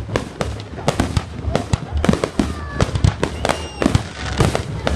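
Fireworks going off in quick succession: a dense run of sharp cracks and bangs several times a second, with a few brief whistling tones near the middle.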